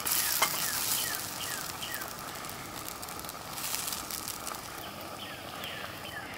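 Potato cakes sizzling in oil in a mess-kit frying pan, loudest in the first couple of seconds and again about halfway through as a plastic spatula works them, with a click of the spatula against the pan about half a second in. Short chirps repeat steadily in the background.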